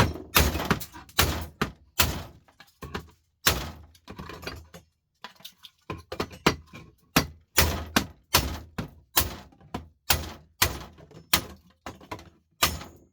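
Hammer repeatedly striking a scrap computer part to break it apart instead of undoing its screws: a fast, uneven run of sharp blows, two or three a second, with a brief pause about five seconds in.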